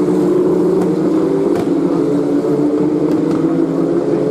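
W Series Tatuus T-318 Formula 3 cars' turbocharged four-cylinder engines running at racing speed, a loud steady engine note that drifts slightly up and down in pitch.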